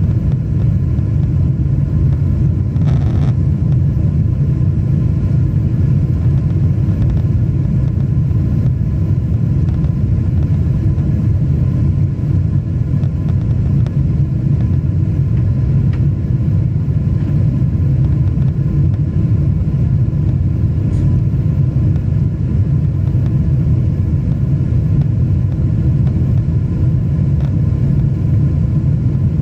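Airliner's jet engines heard from inside the passenger cabin: a steady low rumble with faint steady whining tones above it, the engines held at reduced power while the climb is restricted to low altitude after takeoff.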